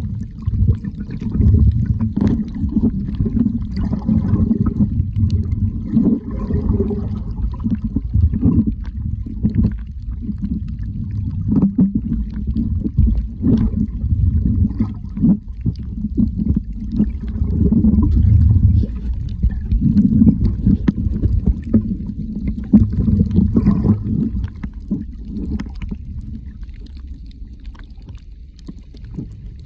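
Muffled water noise: a continuous low rumbling and sloshing with many scattered small clicks and knocks.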